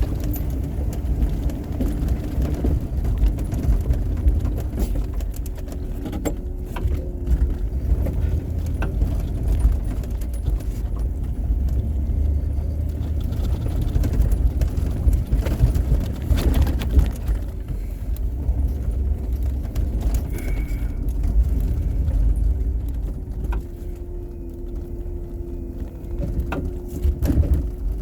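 Engine of a snow-plowing vehicle running steadily while plowing, a constant low rumble with scattered knocks and rattles.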